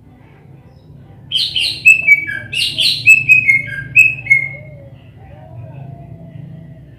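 Cucak ijo (green leafbird) singing in two quick phrases, from about a second in until about four and a half seconds in. Each phrase opens with a couple of loud, sharp high notes and then runs down in a string of shorter, falling notes.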